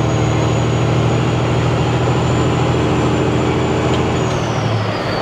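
Semi-truck diesel engine running under load through 8-inch exhaust stacks, with a thin, high turbo whistle over it. Near the end the engine note and the whistle fall in pitch together as the revs drop.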